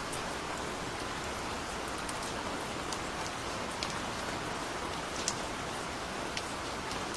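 Steady gentle rain falling, an even patter with scattered individual drops ticking close by.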